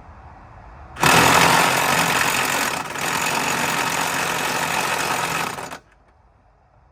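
Impact wrench run in one burst of about five seconds, with a brief dip near the middle, hammering at a fastener on the truck's front end.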